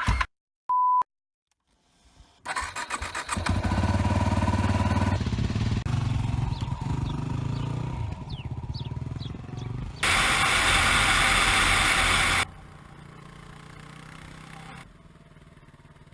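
A short electronic beep, then a motorcycle engine being cranked on its electric starter and running, heard in several abrupt cuts. There is a loud rushing burst about ten seconds in.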